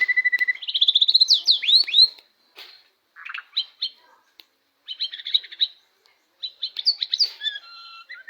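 White-rumped shama (murai batu) singing in loud, varied phrases. A fast trill on one pitch opens the song, followed by rising and falling whistled sweeps and bursts of quick chattering notes, with short pauses between the phrases.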